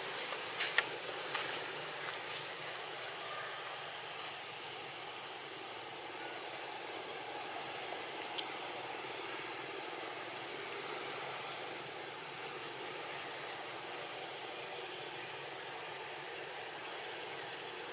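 Steady hiss with a constant high-pitched drone, broken only by a couple of faint clicks.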